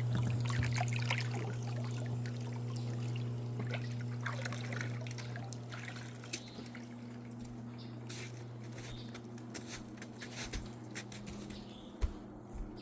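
Hot tub water trickling and dripping over the steady low hum of the hot tub's pump, which slowly grows fainter; scattered light taps in the second half.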